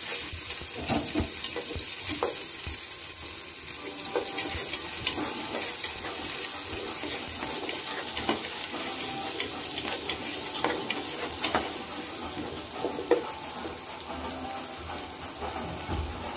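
Chopped small onions, green chillies and curry leaves sizzling in hot oil in a nonstick saucepan, a steady hiss, with a wooden spatula scraping and knocking against the pan as they are stirred.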